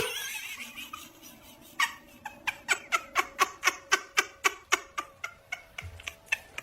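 A pet animal's rapid run of short, evenly spaced squeaky sounds, about three a second.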